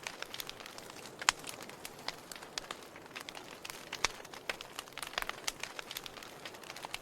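Wood campfire crackling: irregular snaps and pops over a soft hiss, the sharpest pop just over a second in.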